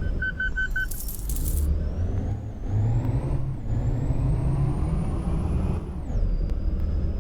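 Ashok Leyland truck running on the road, with a steady low engine rumble and a high whine that climbs slowly and then drops sharply about six seconds in. Near the start there are four short beeps, followed by a brief hiss.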